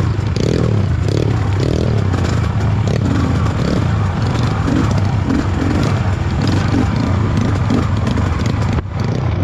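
Off-road trail motorcycle engine running steadily while riding over rough ground, with rattling and scraping.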